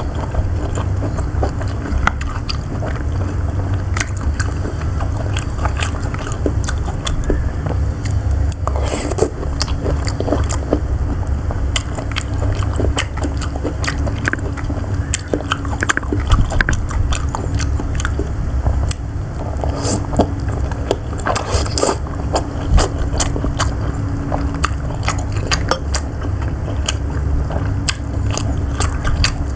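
Close-miked biting and chewing of siomay (Indonesian steamed fish dumplings), wet mouth sounds with many scattered sharp clicks, over a steady low hum.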